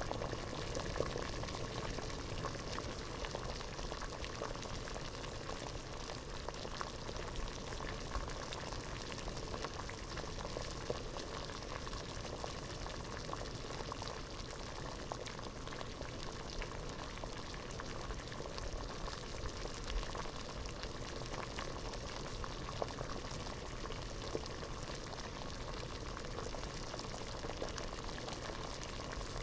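Pot of water at a rolling boil: a dense, steady bubbling with many small pops.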